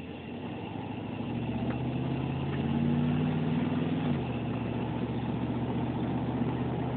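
1994 Chevy Silverado pickup's engine running while driving. It pulls harder with a slowly rising note from about a second in, then drops to a lower, steady note about four seconds in.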